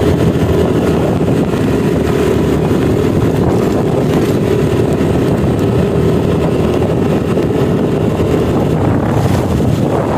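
Yamaha NMAX 155 scooter's single-cylinder engine running at a steady speed on the move, with heavy wind rushing over the microphone.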